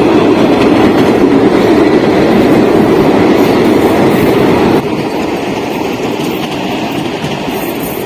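Commuter train running on the rails, with the clickety-clack of its wheels; the sound drops suddenly in level about five seconds in.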